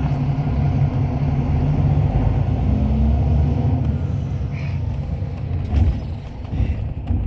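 Hyundai Universe Space Luxury coach on the move, heard from inside the cabin: a steady low engine and road rumble, swelling slightly in the middle, with a few knocks near the end.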